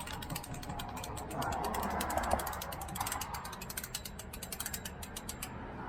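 Rapid, irregular clicking and crackling as a food package is worked open by hand; it stops shortly before the end.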